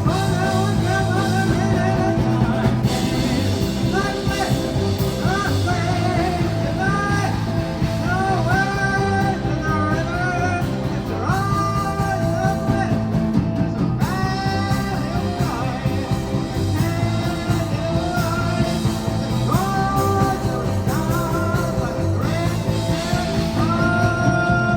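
Live rock band playing a song with singing, guitar and drums.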